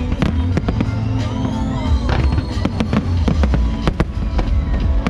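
Aerial fireworks going off in rapid succession, many sharp bangs and crackles with rising whistles about a second in, over loud background music with a heavy bass.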